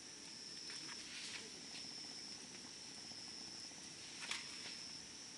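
Wood fire crackling, with a few sharp pops and snaps, the loudest about four seconds in, over a steady high insect trill.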